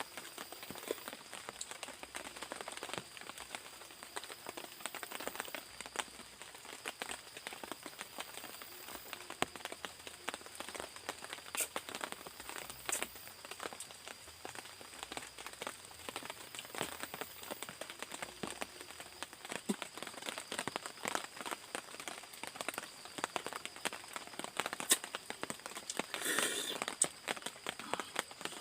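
Rain drops pattering irregularly on a surface, with a steady high-pitched drone under it and a brief louder rustle near the end.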